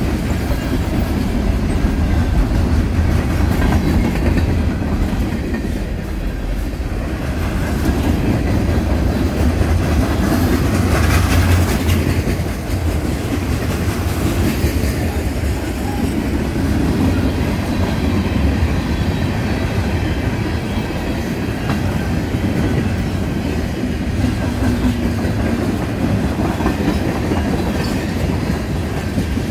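Freight train cars rolling past close by: a steady low rumble of steel wheels with clickety-clack over the rail joints, swelling a little about a third of the way in.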